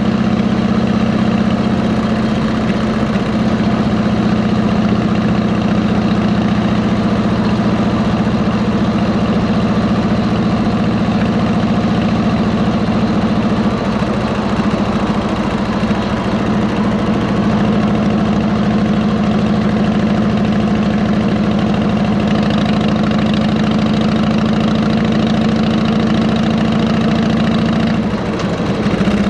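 A Harley-Davidson Electra Glide Ultra Classic's V-twin, fitted with 33-inch fishtail mufflers, runs at a steady, even pitch. The level sags briefly about halfway through and again just before the end.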